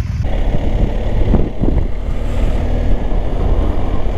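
BMW R1250 GS boxer-twin engine running steadily while the motorcycle is ridden, with wind rushing over the microphone.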